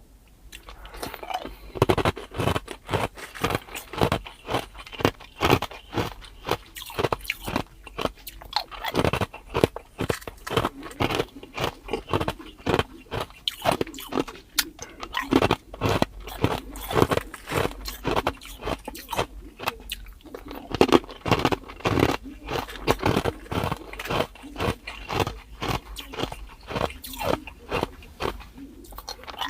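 Clear ice being bitten and chewed: a steady run of sharp, crunchy cracks, about two a second.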